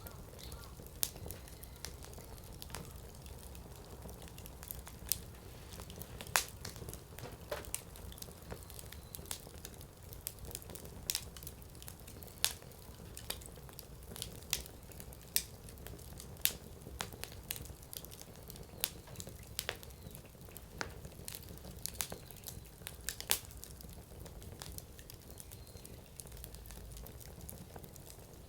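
Wood fire burning in a fire pit: irregular sharp pops and crackles from the burning firewood over a low steady rumble of the flames.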